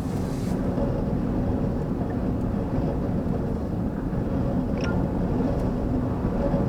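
Steady low rumble inside a vehicle in extreme wind: wind and vehicle noise with no break.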